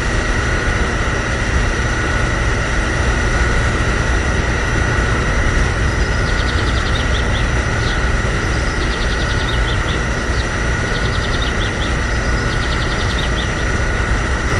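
Miniature tractor running steadily under power: a constant deep rumble with a steady high whine on top. A faint rapid ticking joins for several seconds around the middle.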